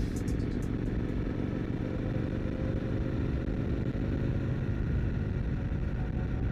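Triumph Scrambler 900's parallel-twin engine running steadily as the motorcycle rides along.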